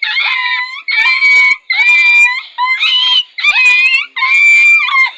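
A boy mimicking a dog: a run of about five or six loud, high-pitched whining yelps, each under a second, with the pitch bending within each call.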